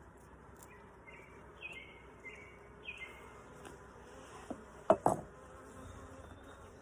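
Honeybees buzzing around an open hive, with two sharp knocks about five seconds in as a frame is pried loose with the hive tool.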